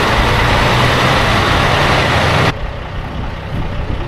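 A heavy diesel engine running under a loud, full rushing noise. The rush cuts off abruptly about two and a half seconds in, leaving a quieter engine running.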